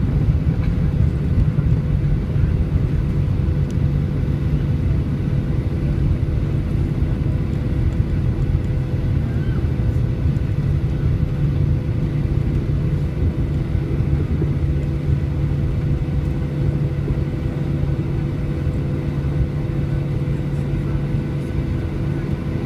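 Steady low rumble with a constant hum inside the cabin of a Boeing 737-800, from its CFM56 jet engines and the airframe.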